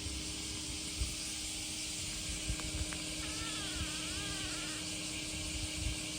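Summer outdoor ambience: a steady high insect hiss, with a constant low hum and irregular low rumbles of wind on the microphone. A faint wavering tone rises and falls for about a second and a half, from about three seconds in.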